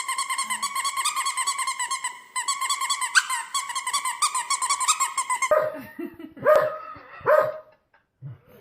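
Dog yipping in a fast, even run of high-pitched calls, then a few separate lower barks near the end.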